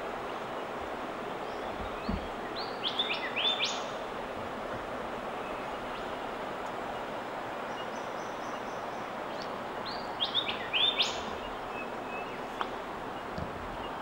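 Outdoor ambience: a steady hiss of background noise, with a small bird's short phrase of quick, high chirping notes about two and a half seconds in, repeated the same way about ten seconds in.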